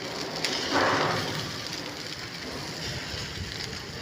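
Chicken sizzling on a charcoal grill, a steady crackling hiss, with a brief louder rush about a second in.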